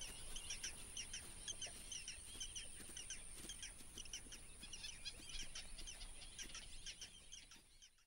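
Birds chirping faintly: many short, quick chirps, with a thin steady high tone running under them. It all cuts off just before the end.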